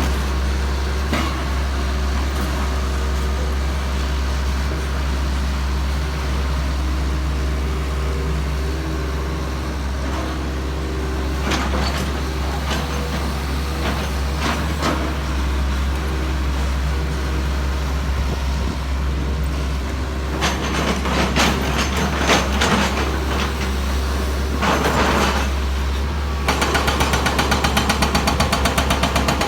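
Heavy vehicle engine running steadily, with a few sharp clicks and knocks. Near the end a fast, even rattle starts.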